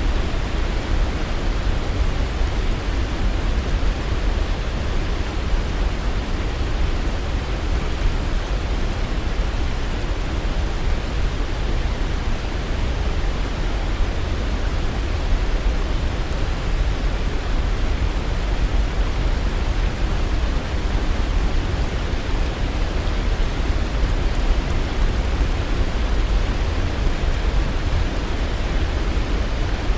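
Waterfall: a steady rush of falling water with a deep, heavy rumble and no change or break.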